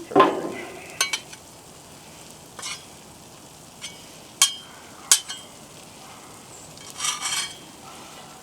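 Metal utensil scraping and clicking on a Blackstone griddle top, with a strong scrape at the start, sharp clicks about every second and a longer scrape near the end, over a faint steady sizzle of food frying.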